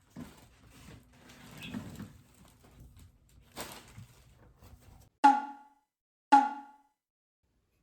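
Faint rustling and light taps, then the background cuts out and two loud, identical struck tones ring out about a second apart, each dying away within half a second: a percussive sound effect added in editing.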